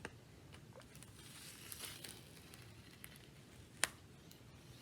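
Clear plastic release film being peeled back from a sticky double-sided-tape diamond-painting canvas: a faint crackling rustle with a few small ticks, and one sharp click a little before the end.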